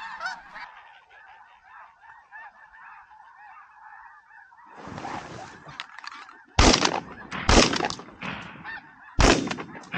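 A flock of geese calling overhead, a dense chorus of honks, then three shotgun blasts: two about a second apart, and a third under two seconds later, with the geese still calling.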